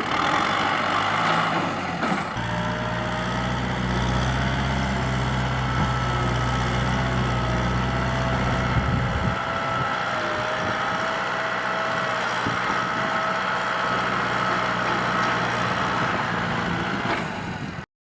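Kubota M6040SU tractor's diesel engine running steadily while pushing soil, with a thin whine above the engine note. The deep engine drone is strongest for several seconds, then eases back about halfway through, and the sound cuts off abruptly near the end.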